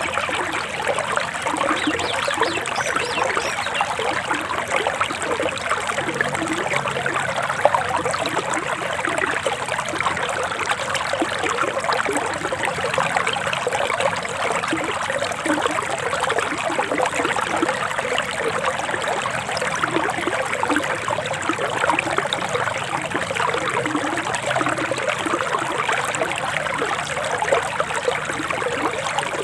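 Forest stream flowing with a steady trickling, babbling rush of water.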